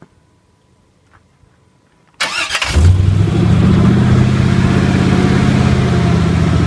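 A car engine cranks and catches about two seconds in, then runs loud and steady.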